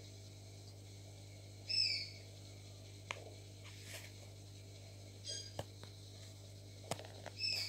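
Three short, high bird chirps a few seconds apart, the first the loudest, over a steady low hum, with a few faint clicks in between.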